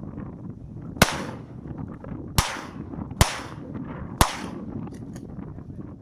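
Four shotgun shots at a duck hunt, irregularly spaced about a second apart, each a sharp crack with a short echoing tail. Steady wind noise on the microphone runs under them.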